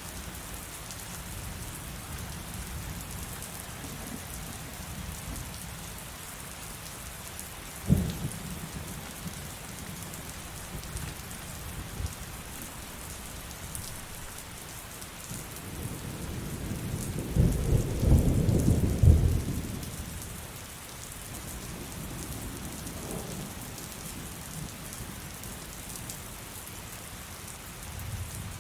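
Steady heavy rain hissing, with a sharp thunder crack about eight seconds in and a loud rolling rumble of thunder that builds and peaks around two-thirds of the way through before fading.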